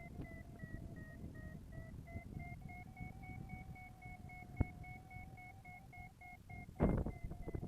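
Paraglider variometer beeping in quick short pulses, about four or five a second. The pitch sags a little, then climbs back: the tone a vario gives while the glider is rising in lift. A burst of wind rush comes near the end.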